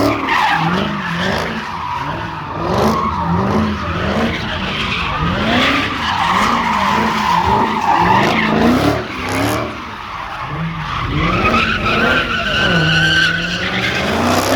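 A car's engine revving up and down in quick repeated surges, about one and a half a second, with tyres screeching over it. Near the end the revs hold for a moment, then climb.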